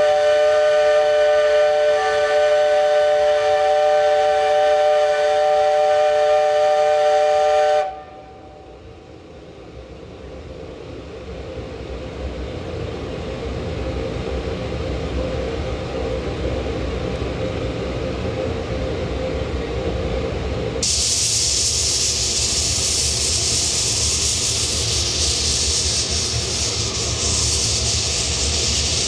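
Steam locomotive whistle blowing one long steady blast of several notes at once, cutting off sharply about eight seconds in. A low rumble then slowly builds, and about two-thirds of the way through a loud, steady steam hiss sets in.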